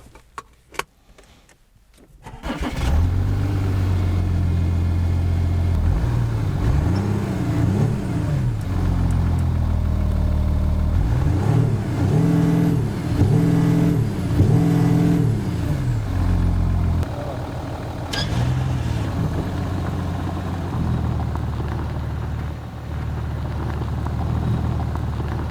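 A few clicks, then the Audi A7 S line's engine starts about two and a half seconds in and is revved in a series of rising and falling blips before settling to a steady idle.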